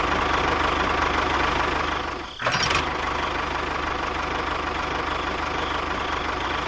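Tractor engine running steadily at a low, even beat. It drops out briefly a little over two seconds in, then comes back with a short sharper burst and carries on running.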